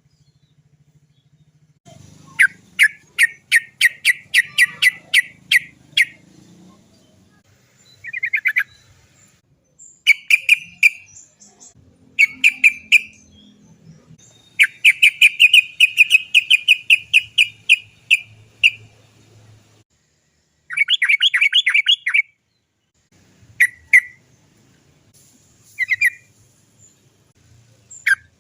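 Yellow-vented bulbul (trucukan) singing its rolling 'chok-chok-chok' chatter: rapid strings of sharp notes, several a second, in repeated bouts. The longest bouts run about four seconds.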